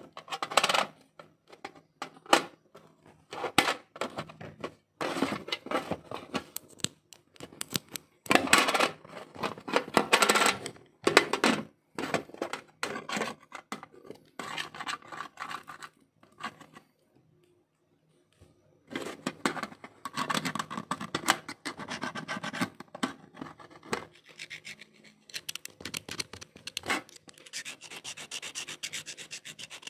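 Hands and tools working on a laptop during a battery replacement: clicks and scraping, rubbing of plastic and metal parts in irregular bursts, with a short pause a little past the middle.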